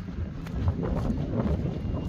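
Wind buffeting the microphone: an uneven low rumble throughout.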